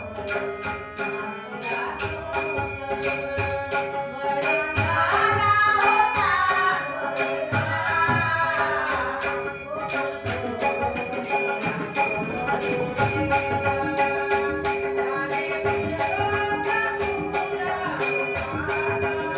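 Marathi devotional bhajan music: harmonium holding steady tones under a fast tabla rhythm with jingling percussion, and a woman's singing voice coming in around the middle and again near the end.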